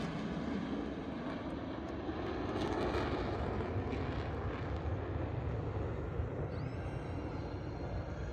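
Jet roar of F-16 fighter jets, easing off after a loud pass and then going on as a steady distant rumble.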